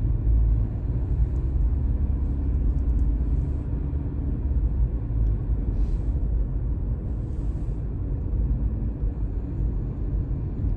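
Steady low road rumble heard from inside a moving car's cabin.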